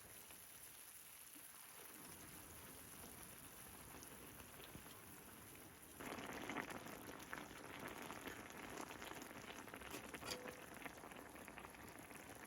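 Faint, steady pattering hiss of water. About six seconds in it becomes louder and more crackly, with fine ticks.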